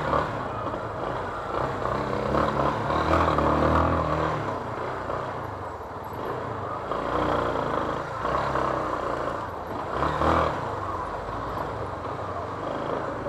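Yamaha Fazer 250's single-cylinder engine running in traffic, its revs rising and falling several times as it pulls away and slows.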